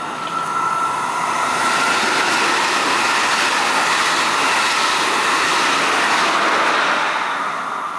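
A train passing through the station at speed on the next track: a steady rush of wheels on rails that builds over the first second or so and fades away near the end.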